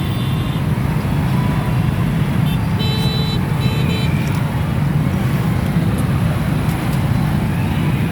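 Road traffic standing in a jam: a steady low rumble of many vehicle engines idling and crawling. Short horn toots sound right at the start and a few more about three to four seconds in.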